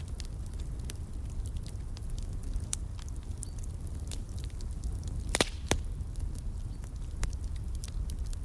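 Wood fire crackling, with irregular sharp pops and ticks over a steady low rumble of the burning fire. Two louder pops come close together about five and a half seconds in.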